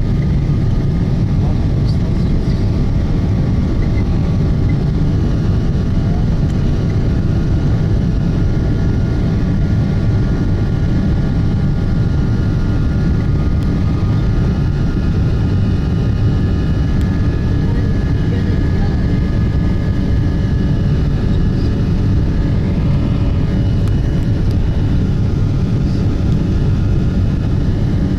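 Boeing 737 jet engines and airflow heard from inside the passenger cabin: a loud, steady rumble with faint high whining tones above it.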